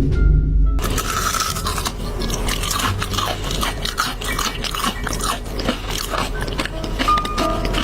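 A person biting and chewing crunchy food, a dense, irregular run of crackling crunches starting about a second in.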